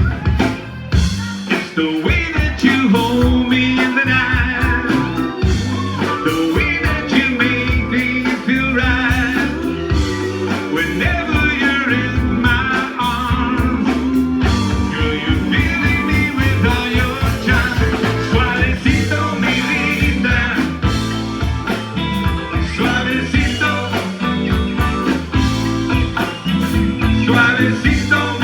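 Live rock band playing loud through a concert PA: a steady drum beat and bass with a wavering lead melody on top.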